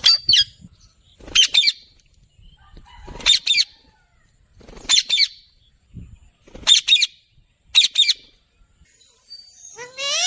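A bird calling repeatedly: six short, sharp, high double chirps spaced about every one and a half to two seconds.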